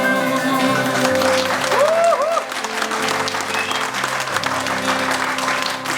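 Audience applauding at the end of a song as the last held notes ring on underneath, with a short vocal whoop from the crowd about two seconds in.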